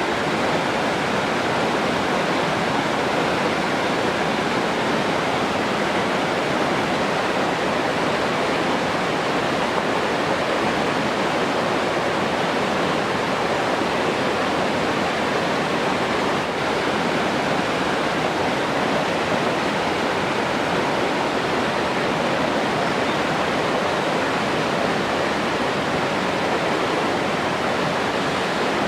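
Steady rushing water, like a waterfall or fast stream, an even unbroken roar of noise with no distinct events.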